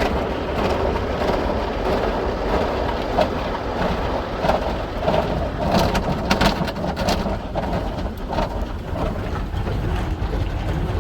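Belanger FreeStyler in-bay automatic car wash spraying water onto a car: a steady rush of spray like heavy rain over a low rumble of machinery, with a few sharp knocks about midway.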